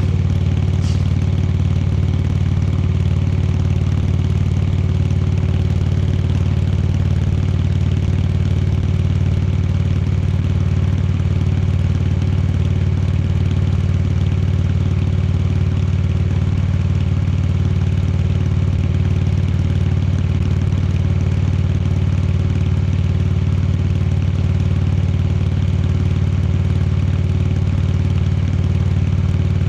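Indian Chieftain Dark Horse's V-twin engine running steadily at a constant speed while riding, its note holding level without revving up or down.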